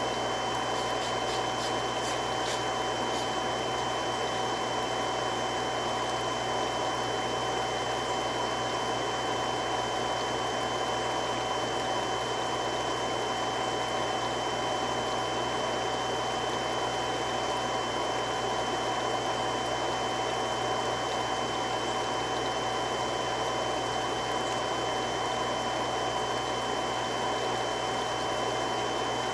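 Three-stage irrigation water pump running steadily: an even rushing hum with a few constant whining tones over it.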